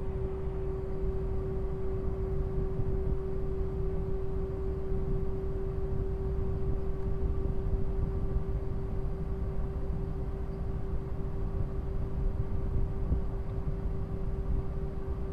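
Steady airliner cabin noise before takeoff: a low rumble with a constant mid-pitched hum over it.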